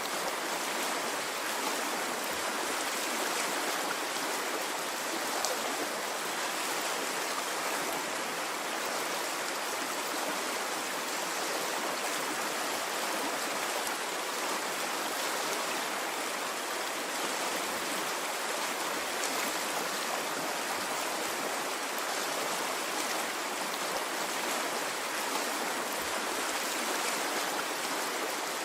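Water in a stream flowing steadily, an even rushing noise with no pauses or surges.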